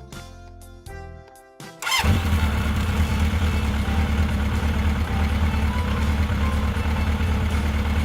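Light music, then about two seconds in a vehicle engine sound effect starts abruptly and runs loud and steady with a deep low hum.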